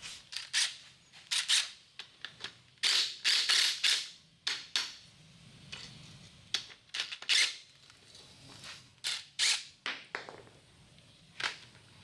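Hand pump sprayer spraying aluminum brightener onto a transmission case in many short hissing squirts, with a longer run of spraying about three to four seconds in.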